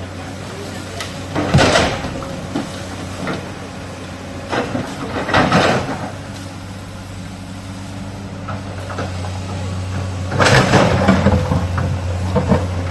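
Excavator's diesel engine running steadily, with loud bursts of scraping and clattering as the bucket works rock and soil: three times, about a second and a half in, around five seconds in, and again from about ten seconds in.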